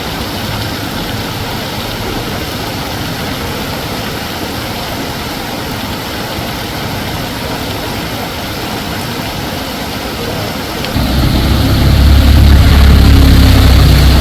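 Steady hiss of heavy rain. About 11 seconds in, a loud, low engine rumble starts close by and continues.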